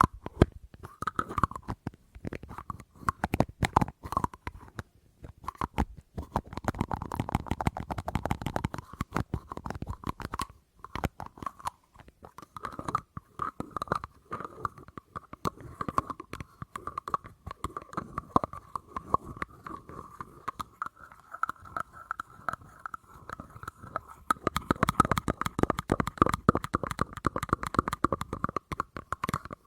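Fast, continuous tapping on an object close to the microphone, many quick taps a second, with a faint ringing tone under the taps in the second half.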